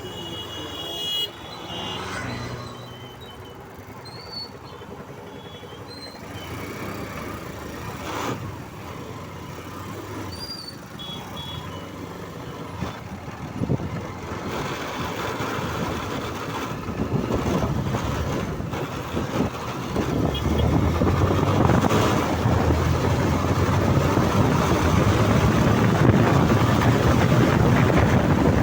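Riding a motorcycle through traffic: engine and road noise with wind buffeting the microphone, growing louder about twenty seconds in as speed picks up. A horn toots briefly at the very start.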